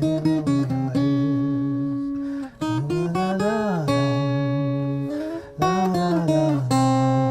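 Acoustic guitar music: strummed and plucked chords ringing out, with a note bending up and back down about three and a half seconds in.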